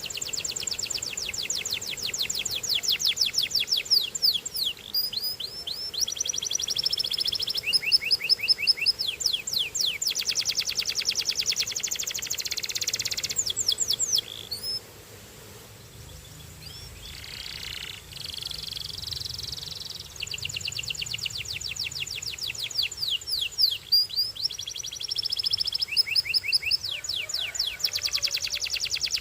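Domestic canary singing long rolled songs of fast, evenly repeated trill notes, some sweeping up or down. The song stops for a few seconds about halfway through, then starts again.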